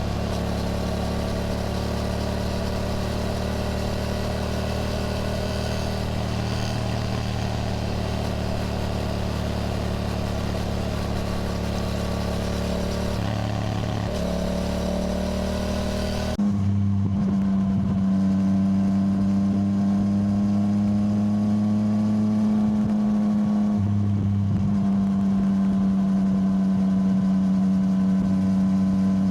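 Yamaha motorcycle engine running steadily at cruising speed. About halfway through, the engine note changes abruptly and gets a little louder.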